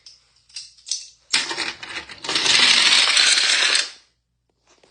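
Two die-cast Hot Wheels cars rolling down a plastic track, a rattling run after a few light clicks at the start, loud for about a second and a half before it stops suddenly near the end.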